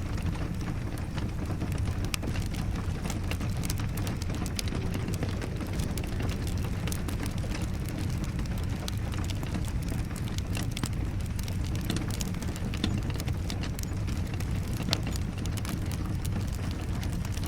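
Wood fire crackling with many small sharp pops, over a steady rush of rain.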